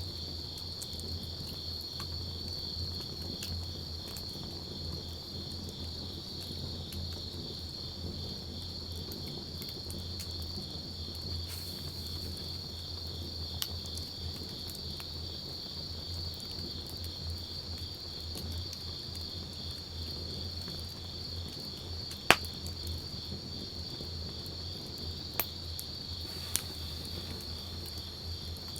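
Crickets chirping in a steady, pulsing trill, with a few sharp pops from a wood campfire, the loudest about 22 seconds in.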